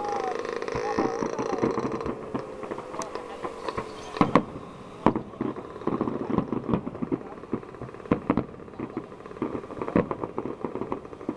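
Fireworks going off: irregular sharp bangs and crackles, with several louder reports about four, five, eight and ten seconds in.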